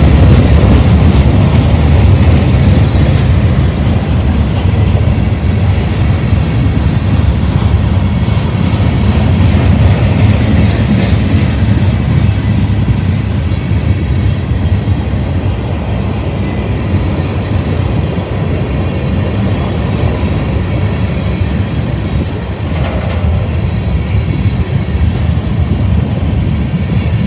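Mixed freight train's cars rolling past close by: steady, loud rumble and clatter of steel wheels on the rails.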